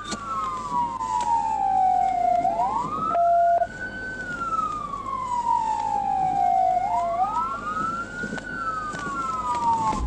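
Police car siren in wail mode, rising quickly and falling slowly about every four seconds, with two wails sounding slightly out of step. A short steady tone sounds briefly about three seconds in.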